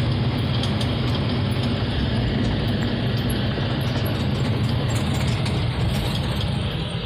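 A 1978 Chevrolet C60 truck heard from inside the cab while driving at road speed: its 350 small-block V8 runs steadily under a constant rumble of road and wind noise.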